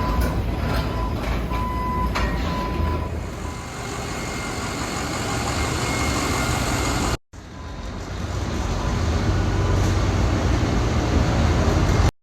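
Steady vehicle engine and machinery noise, strongest in the low end, with a faint high beeping tone in the first couple of seconds. The sound cuts out abruptly about seven seconds in, then resumes.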